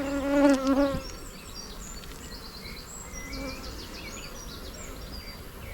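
Honeybee buzzing close by, a steady even-pitched drone that stops about a second in, leaving the open hive much quieter.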